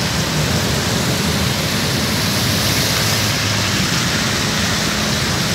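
Heavy rain falling steadily on a wet road, a loud even hiss, with traffic driving through the standing water beneath it.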